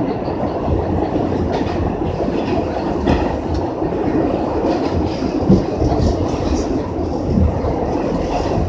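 New York City subway train running, heard from inside the car: a steady rumble of the moving car with scattered knocks and clicks of the wheels over the track.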